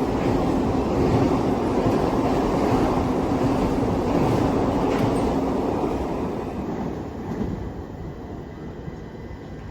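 A freight train's container wagons rolling past on the rails: a steady rumble with a low hum, dying away over the last few seconds.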